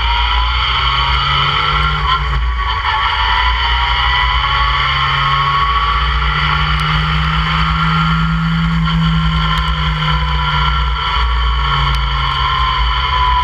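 Open-cockpit track car's engine running hard at speed, with heavy wind rumble on the microphone. The engine note climbs, breaks briefly about two seconds in, then rises again and eases off near the end.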